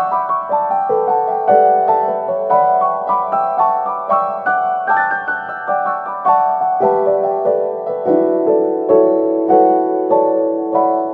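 Background piano music: a slow melody of struck notes and chords, each ringing and fading, at an unhurried even pace.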